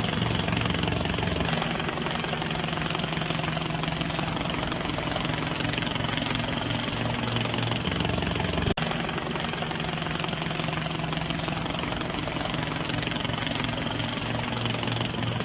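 Steady engine drone with a constant low hum, broken briefly about nine seconds in.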